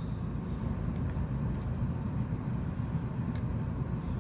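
Steady low background rumble, with a few faint light clicks of small parts being handled.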